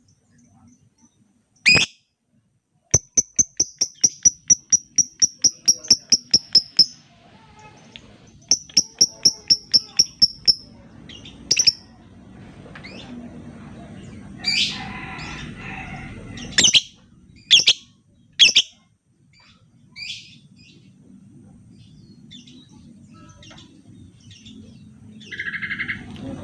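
Lovebird calling: two runs of rapid, high ticking chirps at about four a second, then single sharp, shrill chirps spaced a second or two apart.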